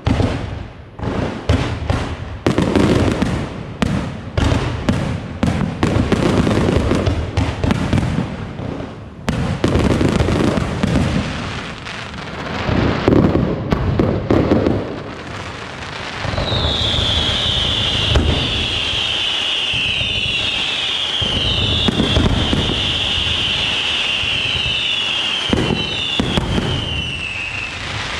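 Aerial fireworks: shells bursting one after another in quick succession with crackling, then past the middle a string of high whistles, each falling in pitch, over continuous crackle.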